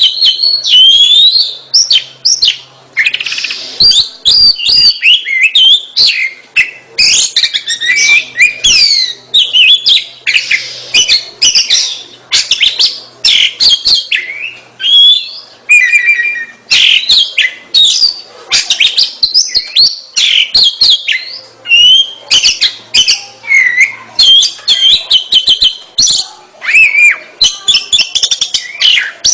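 Oriental magpie-robin (kacer) in full, energetic song: a continuous, rapid stream of loud, varied whistled phrases and chirps with short gaps between phrases.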